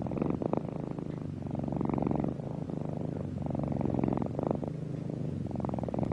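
A cat purring steadily close up, the purr swelling and easing with each breath in and out.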